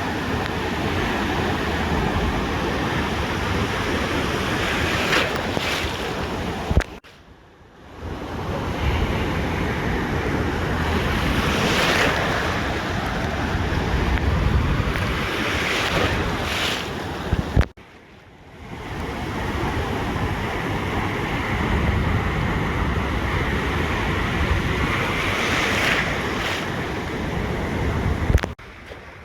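Ocean surf washing steadily onto the beach, with wind rumbling on the microphone. The sound breaks off abruptly for about a second three times, each time just after a short sharp bump.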